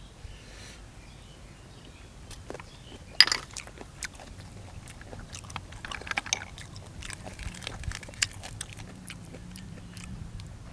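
Close-up mouth sounds of eating: chewing with wet clicks and smacks, and a loud sharp crunch about three seconds in.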